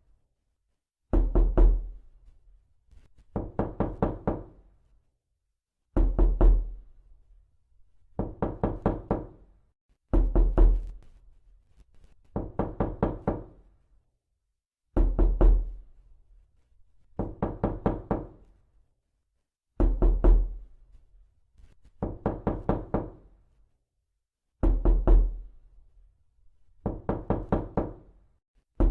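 Knuckles knocking on a door in quick bursts of about five to seven raps. The bursts come again and again, about every two seconds, each with a hollow resonant ring.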